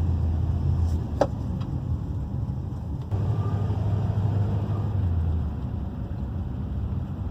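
Van driving, heard from inside the cabin: a steady low rumble of engine and road noise that swells twice, with a single sharp click or rattle about a second in.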